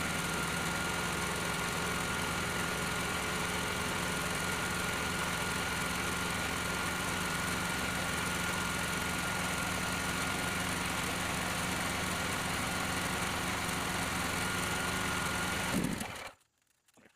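Sportsman 9000-watt portable generator's engine running at a steady speed, with a thin steady whine above the engine sound. It stops suddenly near the end.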